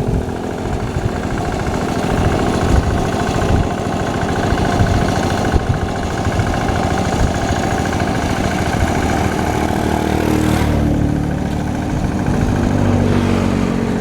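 Hand tractor's engine running with a clattering rattle. About ten seconds in, its sound settles into a steadier, more even drone.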